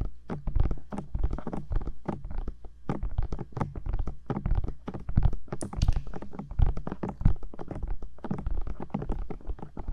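Fingertips tapping and patting on the rubber ears of a 3Dio binaural microphone: quick, irregular taps, several a second, each with a deep thud close in the ear.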